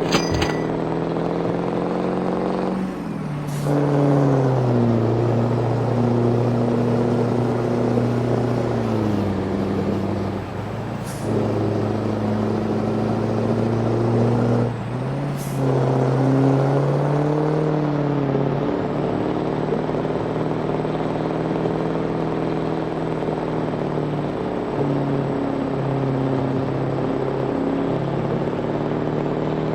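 Scania V8 diesel truck engine on a straight-through exhaust, running with a deep, loud note whose pitch falls and rises several times, with short drops about 3, 10 and 15 seconds in. Brief air hisses come a few times.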